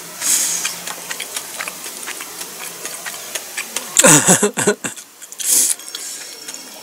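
Close-up chewing and mouth sounds while eating: a steady run of small wet clicks, with two short hissing breaths, at the start and about five and a half seconds in, and a brief voiced murmur about four seconds in.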